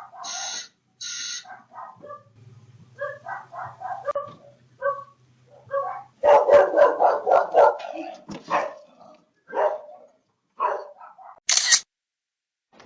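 A dog barking repeatedly in short barks, thickest about six to nine seconds in.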